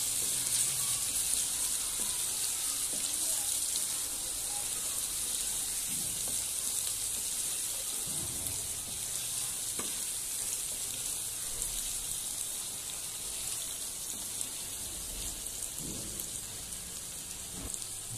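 Mutton pieces in a cooked-down masala sizzling steadily in oil in a nonstick frying pan, the oil separated from the masala. A wooden spatula stirs through it now and then, giving a few soft knocks.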